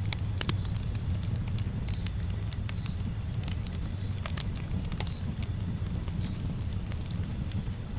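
Campfire burning: a steady low rumble of the flames with irregular sharp crackles and pops from the burning wood.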